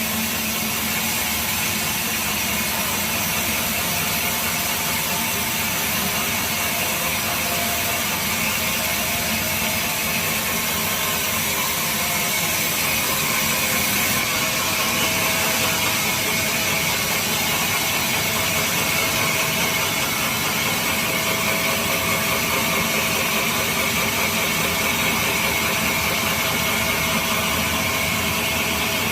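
Sawmill saw running while cutting a mahogany log: a continuous machine noise with a high hiss that grows slightly louder about halfway through.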